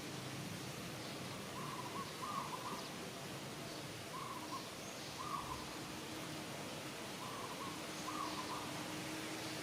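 An animal's short hoot-like calls, mostly two at a time, repeated every two or three seconds over a steady outdoor hiss.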